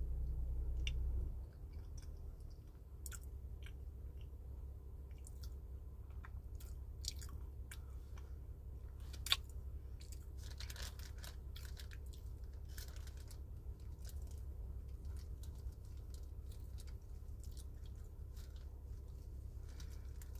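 Close-up chewing of dried fruit: irregular crisp crunches and wet mouth sounds, with one sharper crunch about nine seconds in, over a low steady hum that drops in level about a second in.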